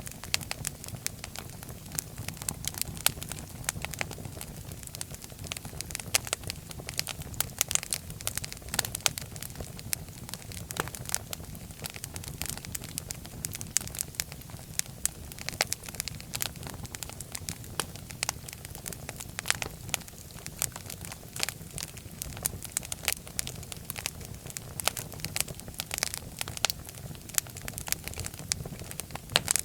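Wood fire burning in a fireplace: dense, irregular crackles and pops over a steady low rumble of the flames.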